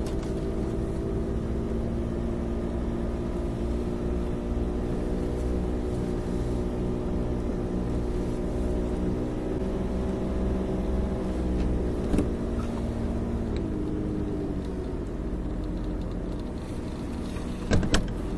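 Snowmobile engine running steadily under way, its pitch shifting a little partway through as the engine speed changes. Two sharp knocks near the end.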